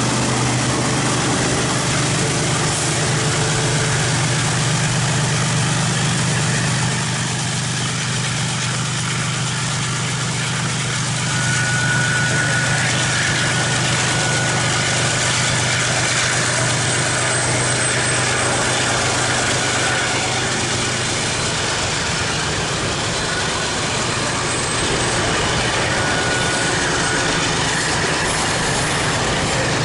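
Diesel locomotive engine running steadily with a low drone, with a brief thin high tone around the middle and again near the end.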